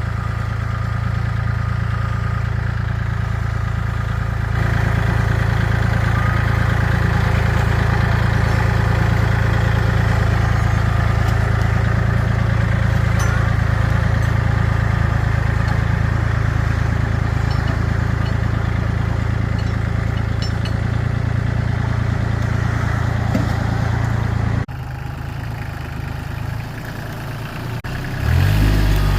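Kubota tractor engine running steadily, growing louder a few seconds in. The sound drops suddenly near the end, and then the engine speeds up with a rising pitch just before it closes.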